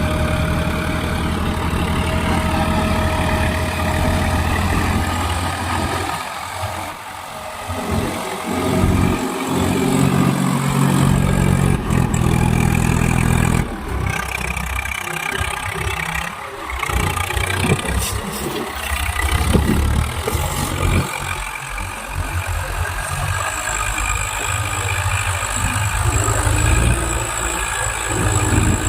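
Diesel tractor engines running hard, the engine note shifting up and down several times as they are throttled, with a few sharp knocks.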